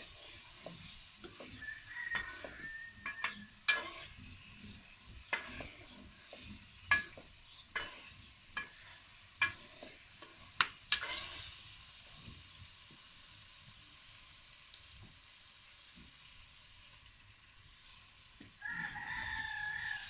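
Chicken frying in hot oil in a karahi, sizzling steadily, with a metal spoon knocking and scraping against the pan as it is stirred through the first twelve seconds or so. Near the end comes a loud, drawn-out pitched call lasting about a second and a half.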